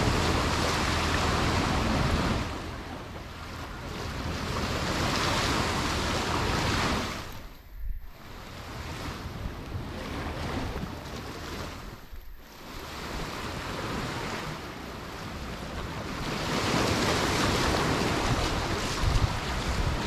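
Sea waves washing onto a sandy shore, the surf swelling and easing every few seconds, with wind buffeting the microphone.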